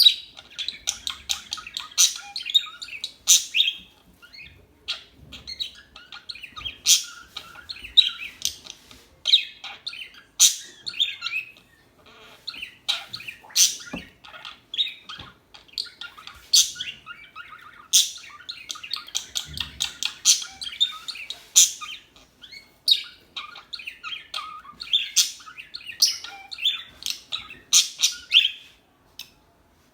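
Pet budgerigars chirping and chattering: a dense, continuous run of short, high chirps and warbles, with a few brief lulls.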